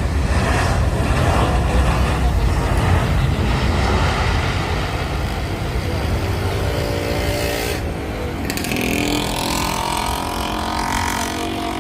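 Airbus A320-214's CFM56 jet engines roaring as the airliner lands, a deep rumble with broad noise. From about six seconds in, several engine tones rise above the roar and shift in pitch.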